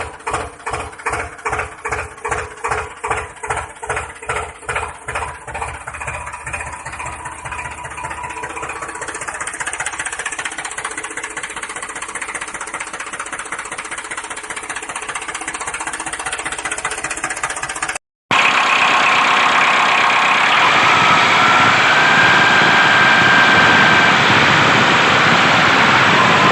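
An engine chugging in slow, regular beats, about two a second, that quicken into a steady run by about eight seconds in. After a short break near the end, a louder, hissier noise takes over.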